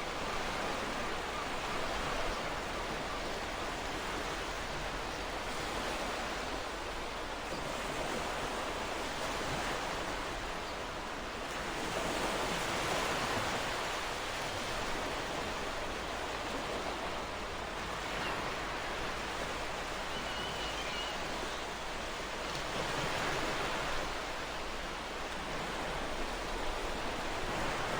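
Ocean surf washing onto a shore: a continuous rush of waves that rises and falls in slow swells about every ten seconds.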